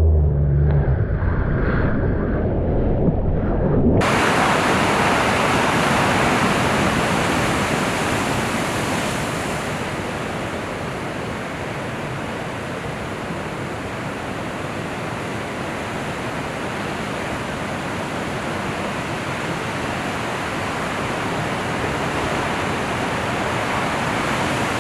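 Ocean surf and wind rushing over a POV camera's microphone, a loud, even roar of whitewater and wind buffeting. It starts suddenly about four seconds in, after a low rumble.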